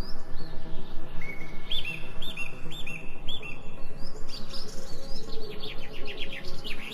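Songbirds chirping: a run of short, repeated arched notes, then a quick series of downward-sweeping calls near the end, over a steady low background of music.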